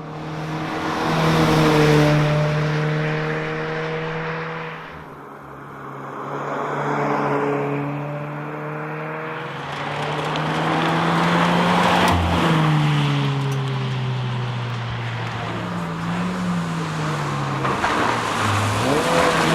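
Toyota 86's 2.0-litre flat-four engine under hard driving, the revs climbing and dropping again several times as the car accelerates and backs off.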